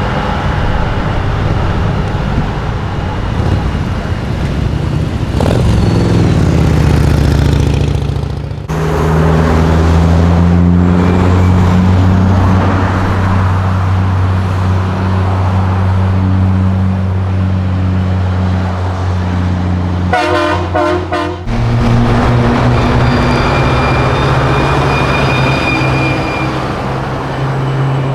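Big-rig truck diesel engines running steadily as trucks pull out, with a quick series of short horn blasts about two-thirds of the way through.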